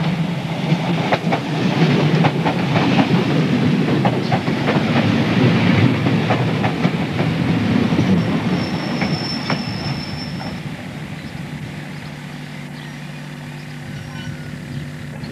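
Class 303 electric multiple unit running into the platform, its wheels clacking over unwelded rail joints over a steady low hum. There is a brief high squeal about nine seconds in, then the clacking fades away.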